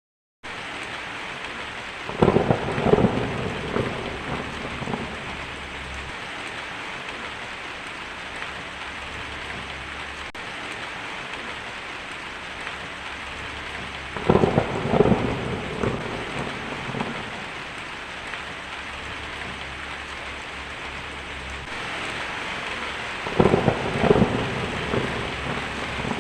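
Steady rain that starts abruptly just after the beginning, with three rolls of thunder: one about two seconds in, one near the middle and one near the end, each rumbling for two to three seconds.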